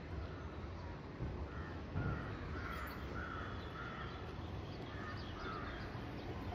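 A bird calling over and over, about eight short calls in four seconds, over a low steady rumble of street noise.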